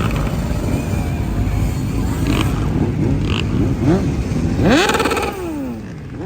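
Several motorcycles riding past one after another, over a steady engine rumble. Each engine note falls in pitch as it goes by, and the loudest pass comes about five seconds in.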